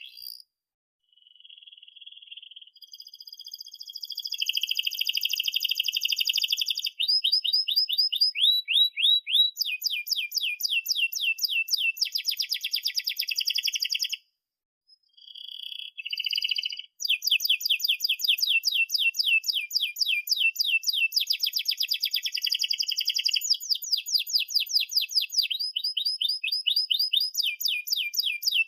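Domestic canary singing a long, rolling song of fast, high-pitched trills of rapidly repeated notes, with a brief break about halfway through.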